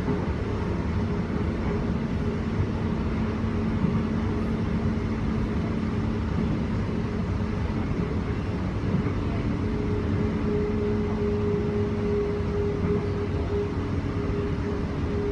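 Inside a Queensland Rail electric train running at speed: steady rumble of wheels on track, with a low steady hum and a higher tone joining about ten seconds in.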